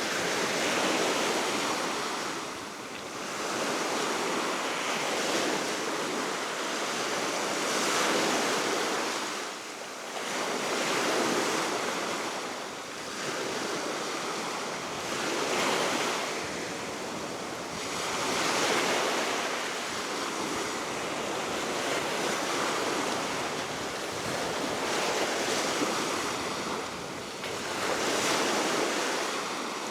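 Baltic Sea waves breaking and washing on the shore below the cliff, in a rolling surge that swells and ebbs every two to three seconds. Steady wind runs underneath, with some wind noise on the microphone.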